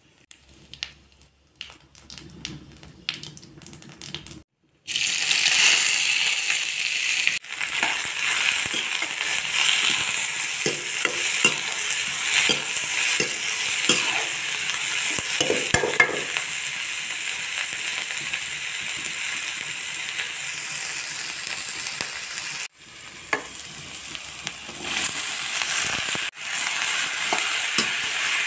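Chopped onions sizzling in hot oil in an iron kadhai, with a steel ladle scraping and tapping the pan as they are stirred. A faint crackle of oil comes first, then the loud steady sizzle starts suddenly about five seconds in. Near the end the sizzle drops quieter and builds again, with green tomato pieces in the pan.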